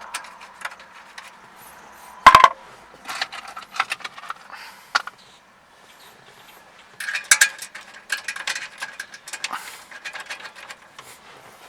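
Clicks, clinks and rattles of screws and plastic trim parts being handled while a dash console piece is fastened, with one loud, short knock about two seconds in and a busier run of small clicks in the second half.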